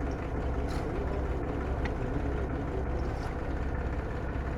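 A tractor's diesel engine idling steadily, a low, even rumble with a few faint ticks over it.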